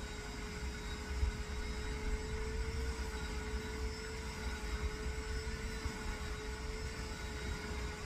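Vacuum cleaner running steadily: an unbroken motor whine on one slightly wavering pitch over a low rumble.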